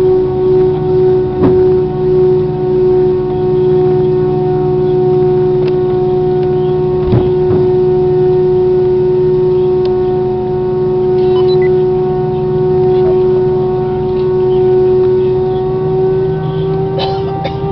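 Airbus A320 jet engines running with a steady high whine over a low rumble; near the end the pitch starts to rise as the engines spool up.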